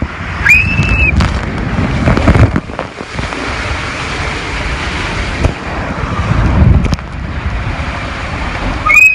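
Loud, steady rush of wind and water on the microphone, as when riding down a water slide, with a brief high-pitched squeal about half a second in and another near the end.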